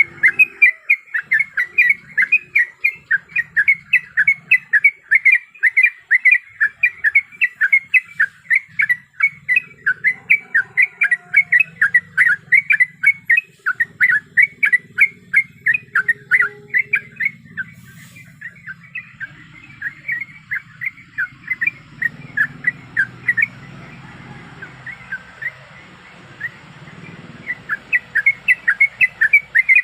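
Yellow-vented bulbul (trucuk) calls: short, sharp chattering notes repeated rapidly, about three a second. They thin out just past halfway, over a faint hiss, and come back thick near the end. This is the call used as a lure, billed as a female calling the male.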